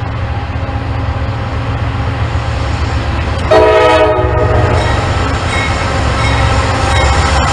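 A train's diesel locomotive running with a heavy low rumble that slowly grows louder. About halfway through it sounds one short blast of its horn.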